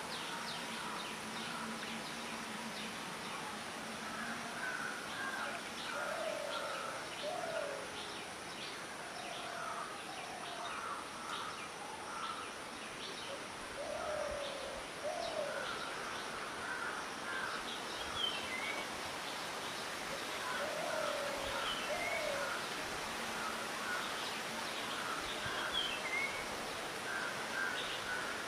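Wild birds calling: pairs of short, low, rising hoot-like notes repeat every seven or eight seconds over a busy chatter of higher chirps, with a few short falling whistles near the end. The low paired call is plausibly the bird known in Indonesia as 'tali pocong'.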